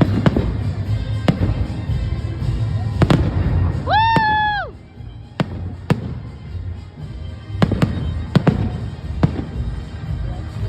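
Fireworks salute: sharp bangs of shells bursting at irregular intervals over a continuous low rumble. About four seconds in, a pitched tone rises, holds for under a second and falls away.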